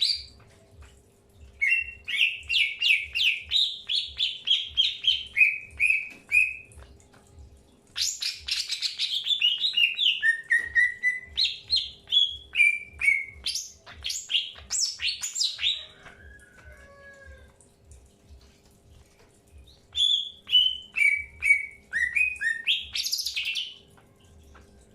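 Greater green leafbird (cucak hijau) singing: three long runs of rapid, chirpy notes with short quieter pauses between them.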